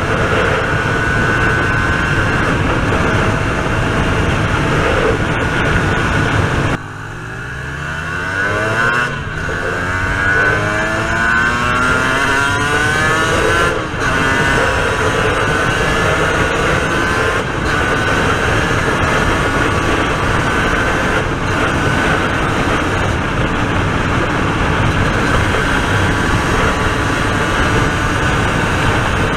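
Aprilia RS250 two-stroke V-twin heard from on board, mostly buried under loud wind noise on the microphone. About a quarter of the way in the wind drops away suddenly and the engine is heard revving up steadily for several seconds, then a brief break in the sound, and the wind noise swamps it again.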